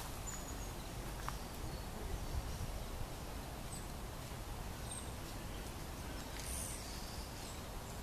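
A few faint, short high-pitched bird calls, scattered and far apart, over a steady low background hiss.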